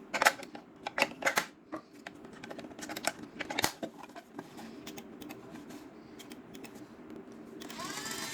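Plastic clicks and taps from handling a toy washing machine, over a faint steady hum. Near the end its small electric motor starts with a rising whine and keeps running steadily.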